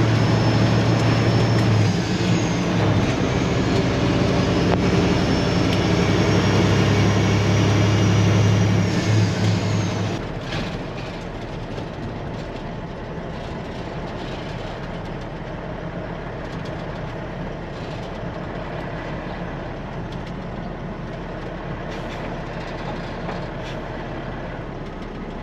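Peterbilt semi truck's diesel engine through straight-pipe exhaust, running hard with a deep steady drone and a high whistle rising and falling above it. About ten seconds in the engine eases off and a quieter steady running continues.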